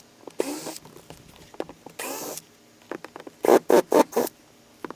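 Cordless drill with a square-drive bit backing out screws, run in short bursts of under half a second, with a quick run of several pulses just past the middle.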